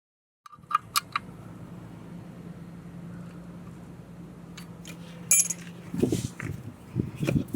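Sharp metallic clinks and clicks of metal grinding tooling and fittings being handled, over a steady low hum, with a few duller knocks near the end.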